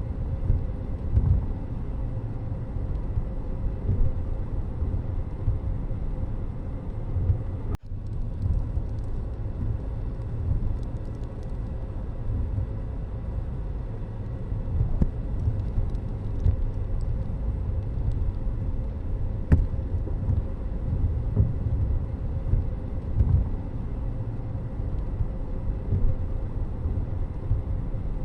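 Steady low rumble of road and wind noise from a moving vehicle, with a few faint steady tones above it. It briefly cuts out about eight seconds in.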